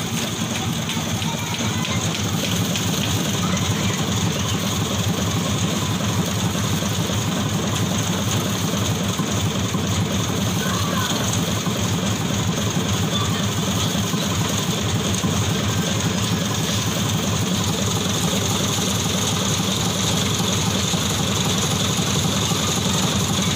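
An engine running steadily at a constant speed, unchanging throughout.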